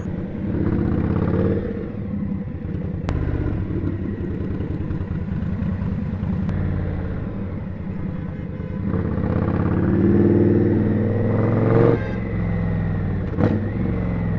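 Indian Scout motorcycle's V-twin engine running on a ride through city traffic, pulling harder twice: briefly about half a second in, then longer from about nine to twelve seconds.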